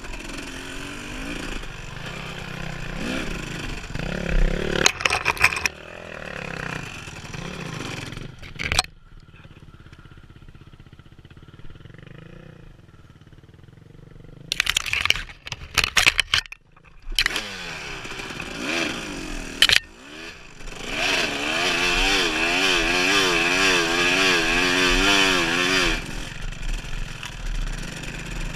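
Dirt bike engine revving up and down while riding trail, with a quieter stretch near the middle and several sharp knocks and clatter. Later the engine pitch wavers quickly up and down.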